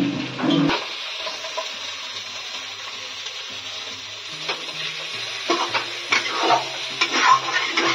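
Chicken sizzling in hot oil in a kadai, a steady hiss. From about five and a half seconds in, a spatula scrapes and stirs against the pan in short strokes.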